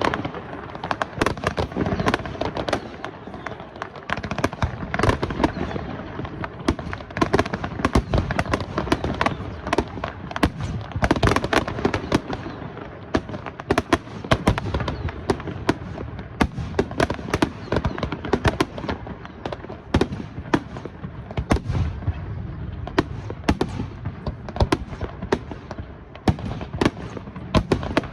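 Fireworks display: a dense, continuous barrage of bursting shells and crackling bangs, several a second, with no let-up.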